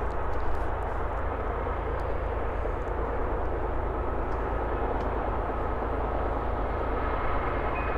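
Freight train's diesel locomotives approaching in the distance, a steady low rumble with a hiss over it.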